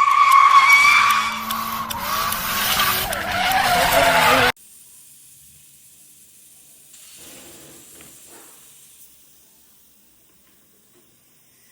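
Car tyres screeching with an engine revving, loud for about four and a half seconds, then cut off abruptly; faint background sound follows.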